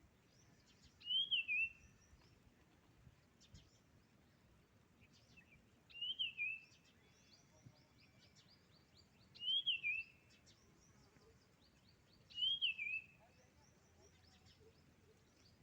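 A songbird singing the same short whistled phrase four times, a few seconds apart. Each phrase quickly jumps up and down in pitch and lasts under a second.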